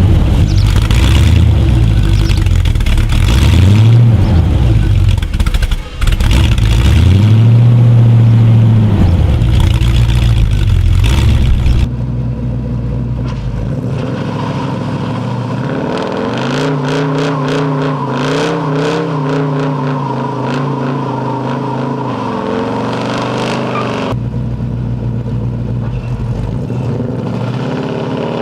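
Opel KAD-series car's GM small-block V8 revving, its pitch rising and falling, in loud clips spliced together. About twelve seconds in it cuts to a quieter, steadier engine note that wavers slightly.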